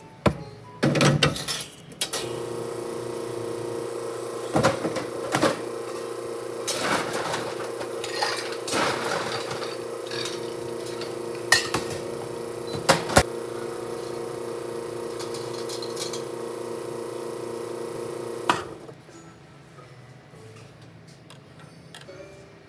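A kitchen appliance motor hums steadily for about sixteen seconds, starting after a few knocks and clatters and stopping suddenly, with scattered clinks of dishes and utensils over it.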